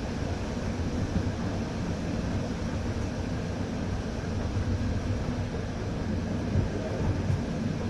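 Passenger train running: a steady rumble of the wheels on the rails and the carriage, heard from inside the coach at the window.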